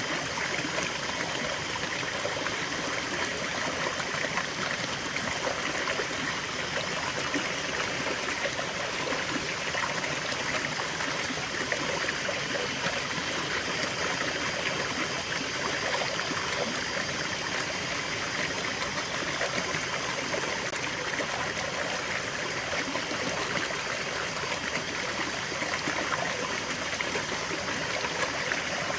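Small stream flowing and trickling over stones, a steady babble of running water with fine splashing detail.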